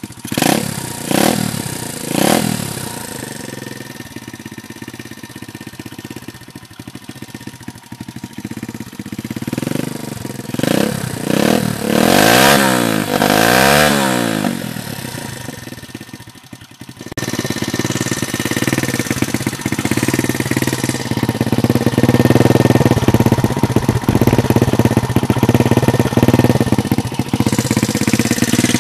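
125 cc four-stroke pit bike engine blipped three times in quick succession, then idling. It is revved up and down several times about halfway through, then runs steadily and louder from a little past the middle.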